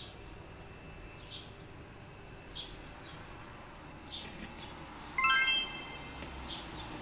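A small bird chirping in the background, short falling chirps repeated every second or so. About five seconds in, a loud bright ringing tone with several overtones sounds once and fades away over about a second.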